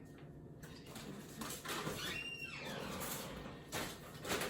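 Kitchen handling noises: food containers rustling and knocking as a refrigerator is cleared out, with a short squeak about two seconds in and a brief scrape or thud near the end.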